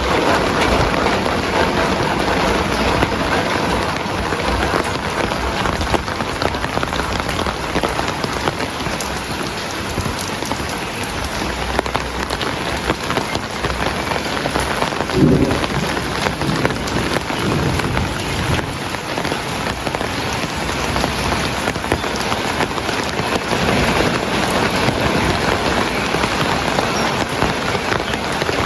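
Heavy rain falling steadily, a dense even hiss of drops. About halfway through comes a short low rumble.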